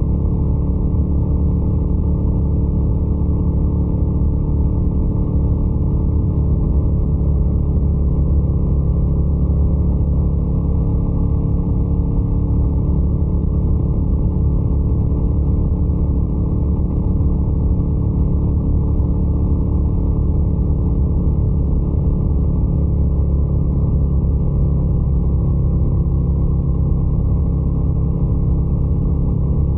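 Motorcycle engine running at a steady, unchanging engine speed, with an even note and no revving.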